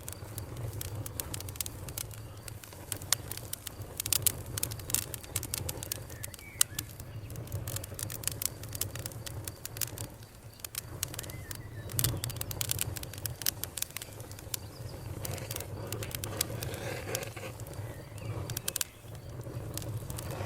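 Campfire crackling: wood snapping and popping in quick, irregular clicks over a steady low rumble of the burning fire.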